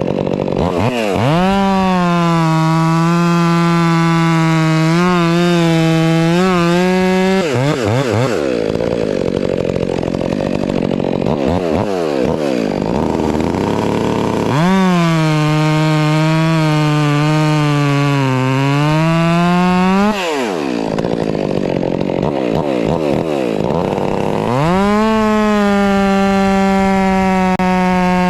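Stihl MS 400 C chainsaw held at full throttle, sawing through a hardwood log in three long cuts; the engine pitch sags under load during each cut and climbs as the chain comes free between them.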